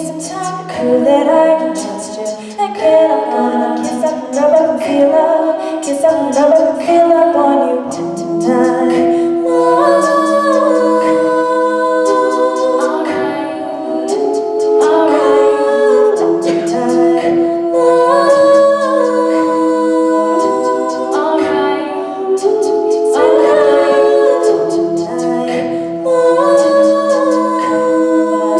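A cappella vocal group singing in close harmony, with sustained chords from the backing voices and a beatboxed percussion beat.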